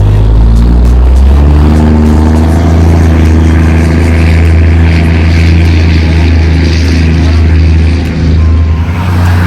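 A 12-valve Cummins turbo diesel in a 1992 Dodge Ram D250 running loud and steady, with music playing along with it.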